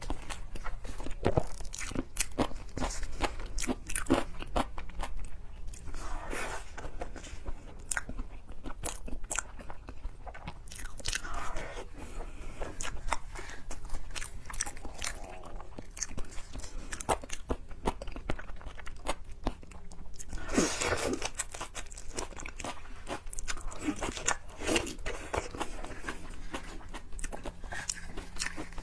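Close-up chewing and biting of seafood, with many short crunches and mouth clicks.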